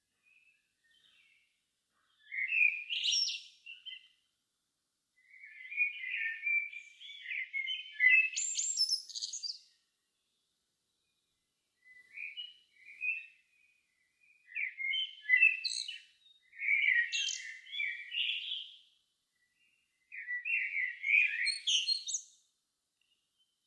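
A songbird at dusk singing five warbling, twittering phrases, each a few seconds long, separated by short pauses. The notes are high and quickly varied.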